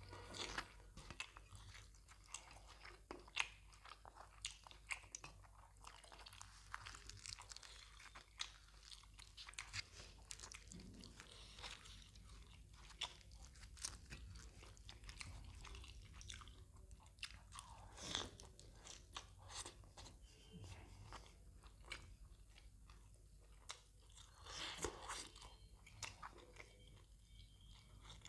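Close-miked chewing and biting of mutton botti (tripe) curry and deep-fried puri: many short, sharp clicks at an irregular pace.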